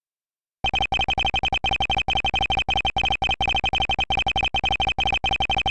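Ace Attorney–style dialogue text blips: a fast run of short, identical electronic beeps, one per character as text scrolls in, starting after a brief silence about half a second in.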